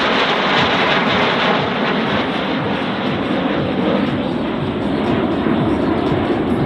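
Snowbirds' CT-114 Tutor jets passing, a steady loud jet noise that holds throughout.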